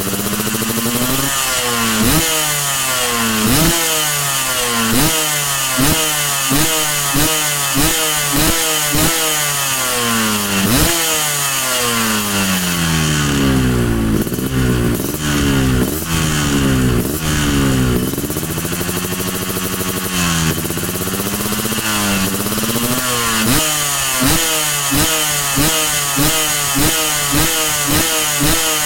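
Yamaha RX-King's two-stroke single-cylinder engine revved through an aftermarket racing exhaust with a crisp note: quick repeated throttle blips, each a sharp rise and fall in pitch. A few longer, slower revs come in the middle, then rapid blips again near the end.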